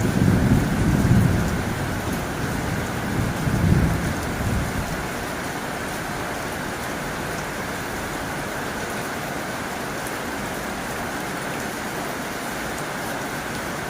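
Heavy rain drumming steadily on a tin roof. Thunder rumbles low twice in the first five seconds, then the rain carries on alone.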